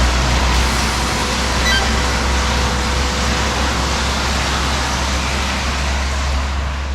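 Strong wind rushing steadily and buffeting the microphone with a deep rumble. The sound cuts off abruptly at the end.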